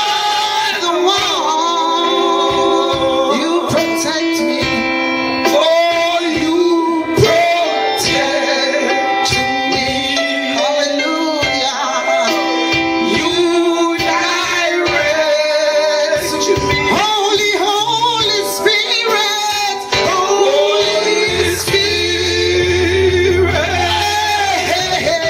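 A church worship song: voices singing over sustained instrumental backing, with a low bass note coming in near the end.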